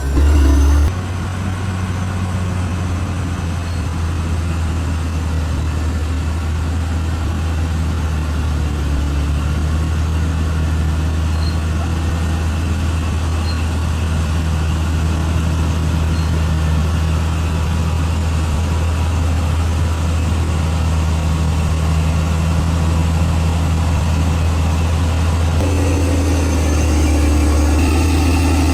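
Bulldozer's diesel engine running steadily with a deep, even hum. The sound shifts abruptly about a second in and again near the end.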